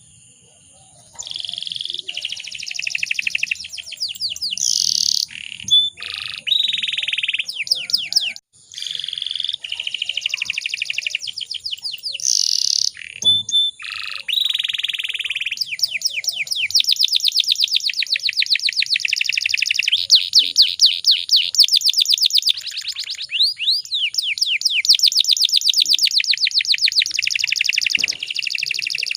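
Canary singing: long series of rapid trills and rolling, fast-repeated high notes, starting about a second in with a few short breaks.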